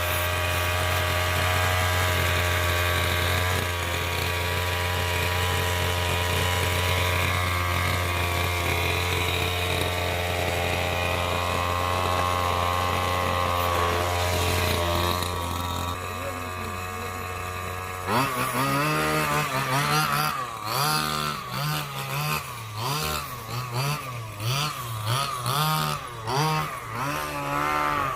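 Two-stroke 32cc gas engine of an RC monster truck idling steadily, then from about two-thirds of the way in revved up and down again and again with the throttle.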